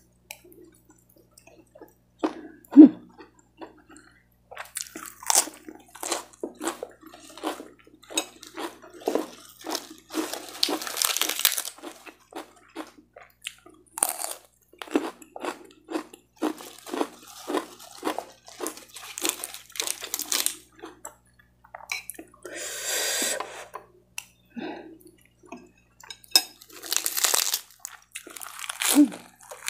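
Close-miked eating: crunching and chewing of raw lettuce leaves and fried rice, with many short wet crackles and clicks. A few longer hissing stretches come about ten seconds in, past twenty seconds and near the end.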